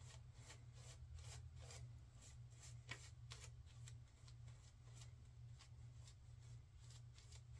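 Faint, quick scraping strokes of a razor cutting stubble through shaving lather, about three strokes a second, over a low steady hum.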